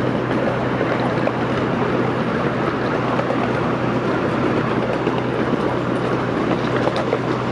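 Small open-car park train running along its track: a steady rumble of wheels and cars with a steady low hum underneath and a few faint clicks.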